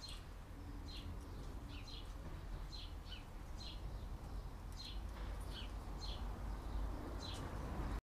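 A bird chirping repeatedly: short, high chirps that slide downward, irregularly spaced about once a second, over a low rumble.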